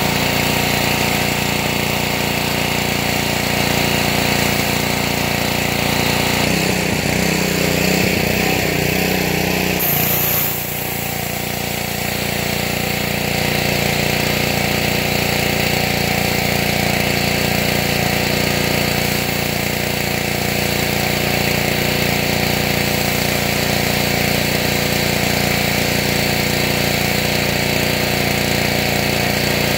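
Small 5-horsepower Honda engine of a 2700 psi gas pressure washer running steadily under load, with the steady hiss of the high-pressure water jet blowing leaves across the ground. The sound shifts briefly about ten seconds in, dipping a little in level before settling back.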